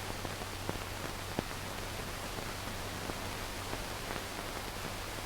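Steady hiss with scattered faint crackles and a low hum: surface noise from the optical soundtrack of an old 1940s film print, running before the music starts.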